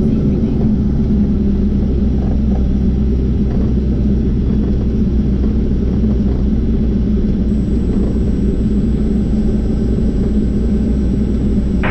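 Diamond DA40 NG's Austro AE300 four-cylinder turbodiesel engine running steadily at idle, a low, even drone with no change in power, while the aircraft holds on the runway before takeoff.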